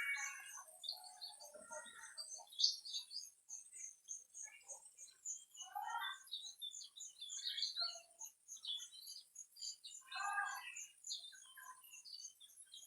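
Several wild birds chirping and singing in short, scattered phrases. Under them runs a steady high-pitched hiss with a rapid, even ticking pulse, as from insects.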